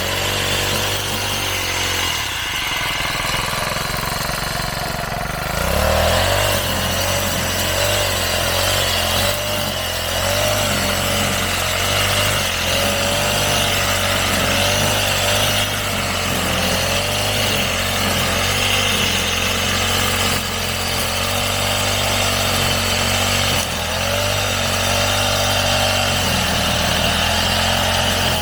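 Small-engine brush cutter running under load as it cuts grass, its pitch wavering steadily. It eases back for a few seconds near the start, then revs up again about five and a half seconds in.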